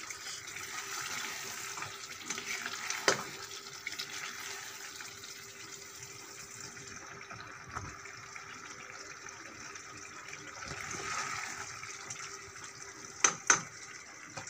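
Potato and capsicum curry sizzling in ghee in a pan on low heat, a steady hiss. It is broken by a few sharp knocks of the metal spoon against the pan: one about three seconds in and two in quick succession near the end.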